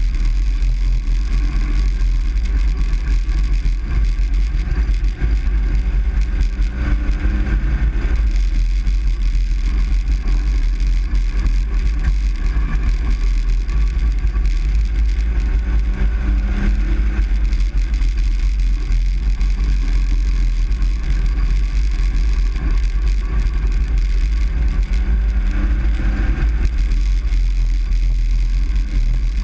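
Engine and road noise heard inside a moving truck's cab. It is a steady, loud low rumble, and the engine note shifts slightly now and then.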